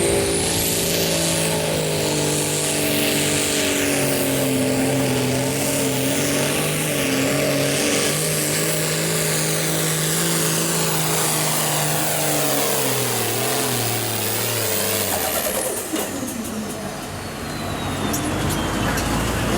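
Hot stock pulling tractor's turbocharged diesel engine at full throttle under load, holding a steady high note for about thirteen seconds. Its pitch then sags as the engine loses revs and drops off, and a high turbo whistle winds down near the end.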